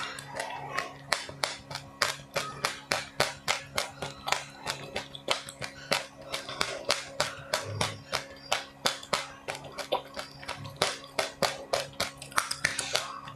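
Close-miked chewing of crunchy food, sharp crunches coming about four times a second, over a steady low hum.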